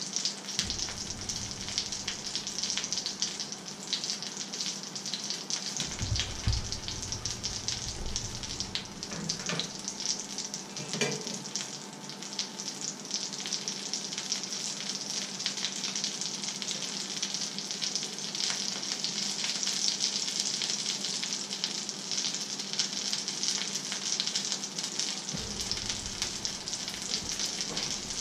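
Fish fingers frying in a pan on a hot hob: a steady crackling sizzle, with some bumps and knocks from the pan being handled about a quarter to halfway through.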